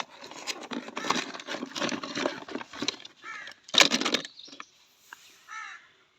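Hard plastic animal toys clattering and knocking together as they are handled, dense for the first few seconds with a loud burst of clatter about four seconds in. A few short pitched calls sound over it around the middle and near the end.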